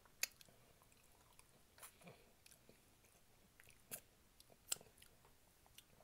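Mouth sounds of a man eating oxtail meat off the bone by hand: quiet chewing with scattered wet smacks and clicks, a few of them sharp.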